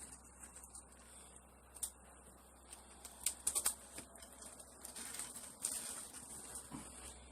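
Scattered light clicks and taps, with a short quick cluster about three and a half seconds in, over a faint steady high hiss, from old window tint being stripped off glass.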